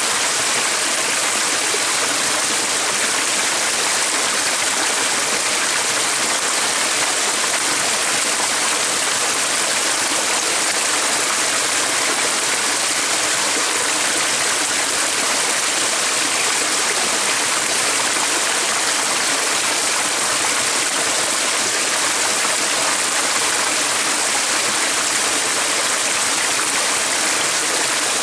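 Flowing water rushing steadily, like a stream or brook, with no change in level.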